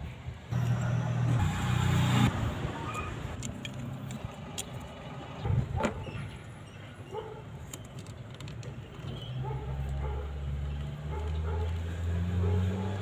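A motor vehicle engine running, coming in strongly again in the last few seconds with its pitch rising, with scattered small clicks of a plastic wiring connector and its terminals being handled.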